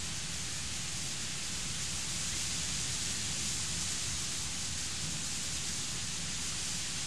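Heavy thunderstorm rain, a steady, even hiss of downpour.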